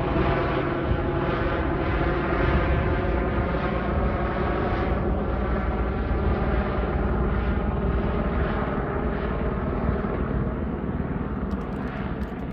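Airbus H125 single-turbine helicopter flying overhead: a steady rotor and turbine drone that fades slightly near the end as it moves away.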